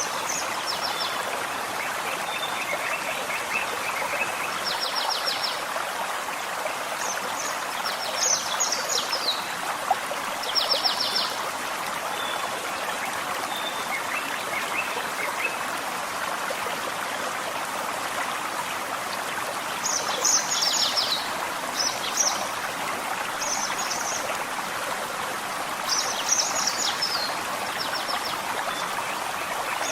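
Forest stream flowing steadily, with a small bird singing short, high, rapid trilled phrases over it every few seconds.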